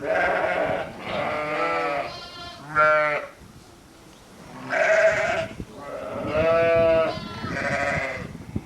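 Sheep bleating, a run of repeated, quavering calls with a short lull about four seconds in.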